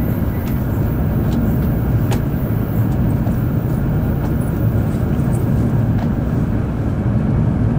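Steady low rumble of a Series N700 Shinkansen running at speed, heard inside the passenger cabin, with a faint click about two seconds in.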